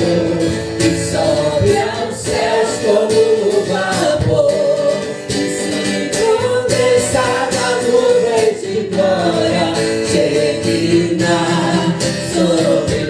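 Gospel worship song: voices singing a melody over instrumental accompaniment.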